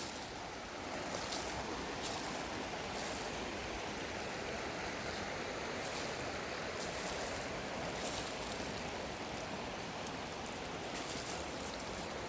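Steady rushing background noise, with a few faint crunches scattered through it.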